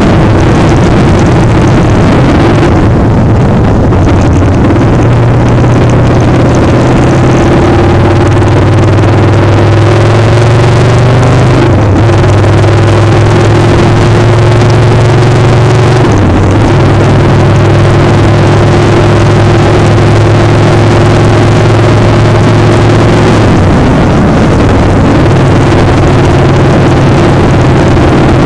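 Motorcycle engine running steadily under way. Its pitch shifts a few times, around the middle and again near the end.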